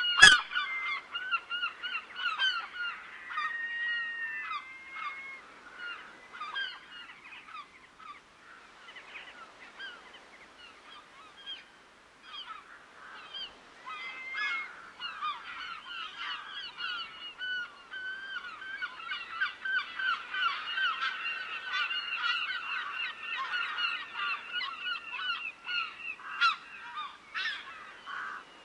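A flock of geese honking, many short calls overlapping. The calling thins out in the middle and builds again to a dense chorus in the second half. A sharp click sounds just after the start.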